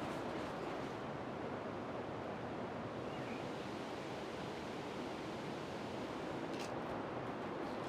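Steady heavy rain, an even hiss of falling drops, with one faint sharp tick near the end.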